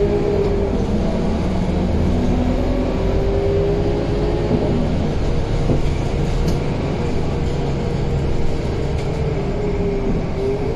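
Scania K230UB city bus's five-cylinder diesel engine and drivetrain running under way: a steady low rumble with a whine that rises and falls in pitch as the bus speeds up and slows, and a few light rattles.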